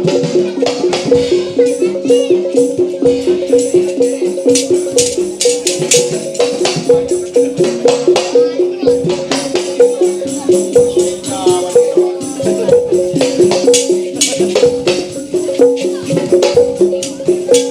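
Percussion music: a fast, repeating figure of pitched tones over many sharp drum or clap strokes, at a steady loud level throughout.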